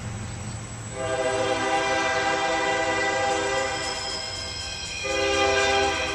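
Locomotive air horn sounding a chord in two long blasts: the first starts about a second in, and the second, louder one starts near the end. A low rumble of the approaching train runs underneath.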